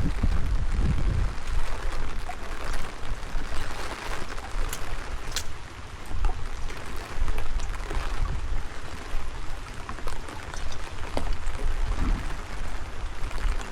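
Steady rain falling and splashing, with gusty wind rumbling on the microphone and a few sharp drops striking close by.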